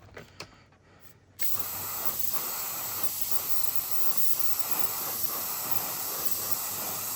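Spray paint hissing steadily from an aerosol can onto plastic model kit parts, starting suddenly about a second and a half in, after a few faint handling clicks.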